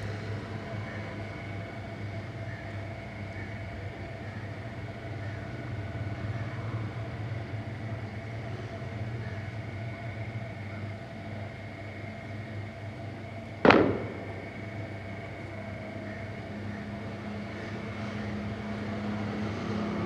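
Steady mechanical hum, with a single sharp knock about fourteen seconds in.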